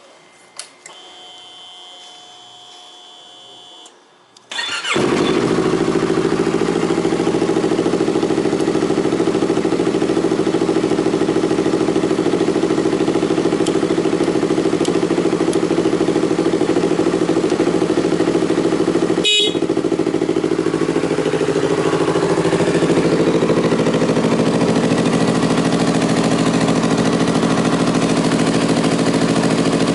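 Yamaha YZF-R25's 249 cc parallel-twin motorcycle engine with an aftermarket muffler: after a few quiet seconds with a faint steady whine, it is started about four seconds in, catches at once and settles into a steady idle.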